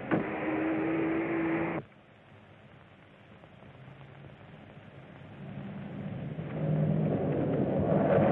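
Rumbling train noise with a steady hum that cuts off abruptly about two seconds in. After a quiet stretch, a vehicle's running sound swells up and grows loud near the end. Early sound-film soundtrack with a muffled, narrow range.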